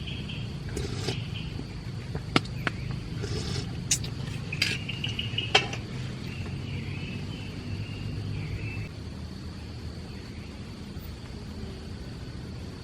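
Several sharp clinks and knocks, spaced irregularly over the first six seconds, with a few short rustles between them, over a steady low rumble and a faint steady high hum.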